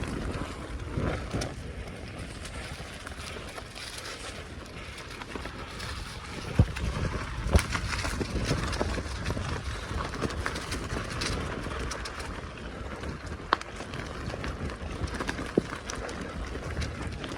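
Bicycle being ridden along a forest track: steady tyre and rattle noise with scattered clicks and a few sharp knocks from bumps, the loudest a little after six and seven seconds in.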